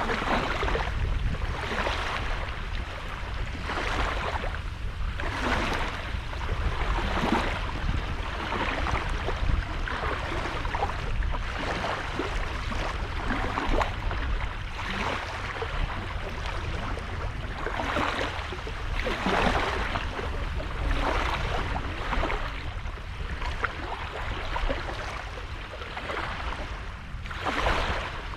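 Small sea waves breaking and washing onto a sandy beach, a fresh wash every second or two, over a steady low rumble.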